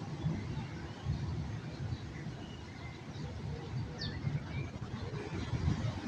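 Small birds chirping faintly now and then, with a few brief calls about two and four seconds in, over a steady low rumble.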